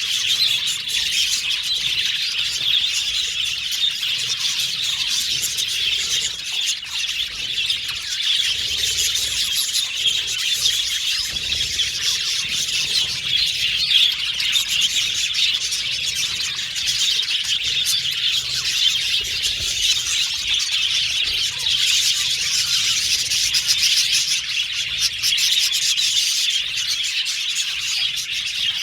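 A flock of budgerigars chirping and warbling together, a dense unbroken chatter of many high-pitched calls overlapping.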